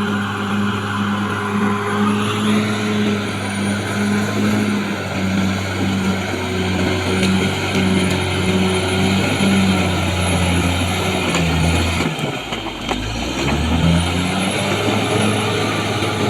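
Caterpillar D6R XL bulldozer's diesel engine working steadily under load with a faint high whine. About twelve seconds in the engine note drops as it lugs, then climbs back up.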